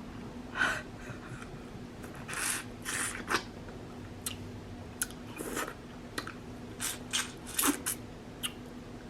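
Close-up eating sounds of seafood boil: chewing with wet, crackly mouth noises and sharp little clicks, a dozen or so short bursts at irregular moments, over a faint steady hum.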